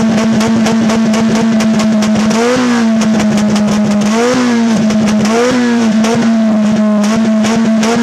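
Volkswagen Golf 3 GTI 16V's four-cylinder engine held at high revs, its note steady with a few quick upward blips. Sharp exhaust pops and crackles run through it as the exhaust spits flames, made without the ignition key-off trick.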